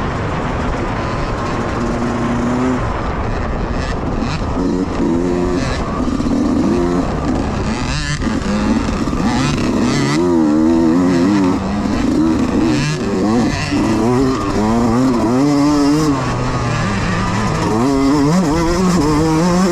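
Youth dirt bike engines racing, the revs rising and falling quickly and repeatedly as the throttle is worked.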